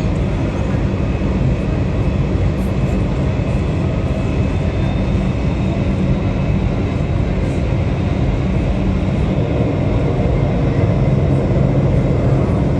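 Jet airliner engines running steadily: a deep, even noise with a faint high whine above it.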